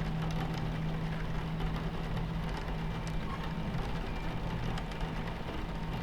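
Steady low rumble of a train running, with a constant hum under it and rain pattering on the window in small scattered drops.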